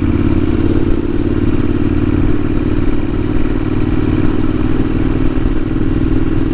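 Triumph Street Scrambler's parallel-twin engine running at a steady cruising speed, with no change in revs.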